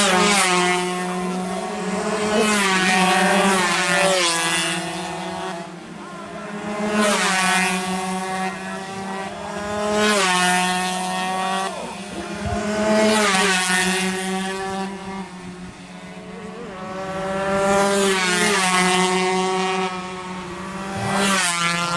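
116cc two-stroke underbone race motorcycles running at high revs past the track edge, one burst after another, about six times, each falling in pitch as it goes by. A steady low hum runs underneath.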